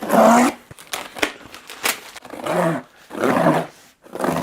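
Cardboard shipping box being torn open: several short, rough ripping strokes of cardboard and packing tape, with a few sharp clicks between them.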